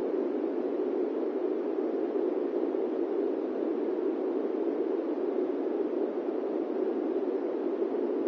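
Steady airplane-cabin noise: an even, low rushing hiss with no engine tones or changes, sitting mostly in the low-mid range.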